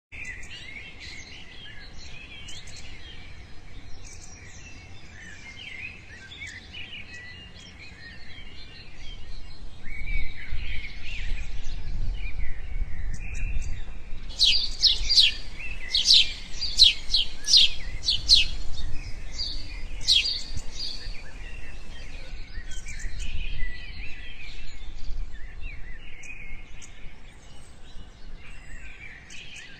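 Many small birds chirping and twittering together. Midway, a run of about eight loud, sharp calls sounds in quick succession over a low rumble.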